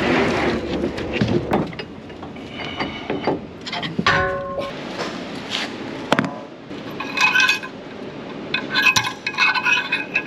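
Loose metal parts and tools clinking and clanking against each other: a run of sharp clinks, several of them with a short metallic ring.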